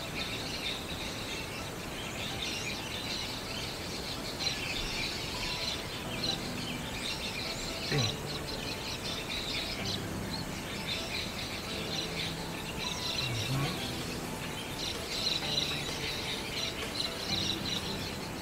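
Many birds chirping and calling at once, a busy chorus of quick high notes, with one brief falling swoop about eight seconds in.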